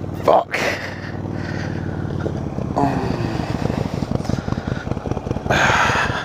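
Motorcycle engine running; about three seconds in its pitch falls as the revs drop, and it goes on at low revs with a rapid, uneven chugging. Near the end comes a loud rushing noise lasting about a second.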